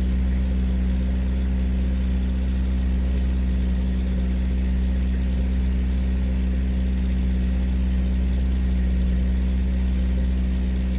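Motorboat engine running steadily, a low even drone with no change in speed.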